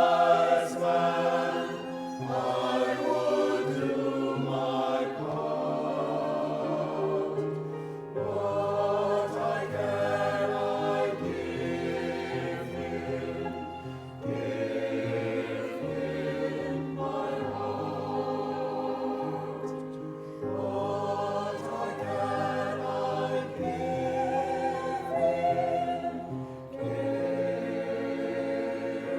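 Choir singing with sustained low accompanying notes beneath, in phrases of about six seconds each with brief breaks between them.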